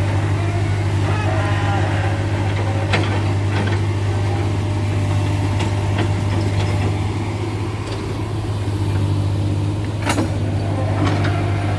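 Heavy engine running at a steady low pitch, with a few sharp clicks over it.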